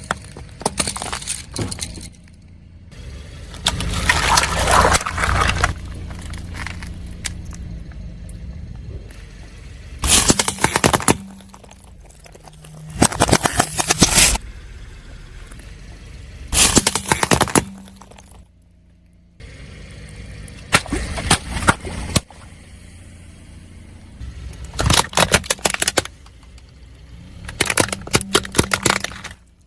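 Car tyres crushing crunchy objects, giving about eight separate bursts of cracking and snapping crunches, each about a second long, over the low rumble of the car.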